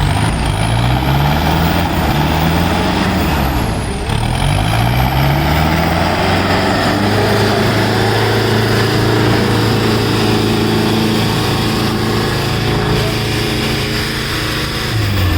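Tractor diesel engines revving hard under load, pulling against each other in a tug-of-war. The revs rise and fall twice in the first few seconds, then are held high and steady, and drop off right at the end.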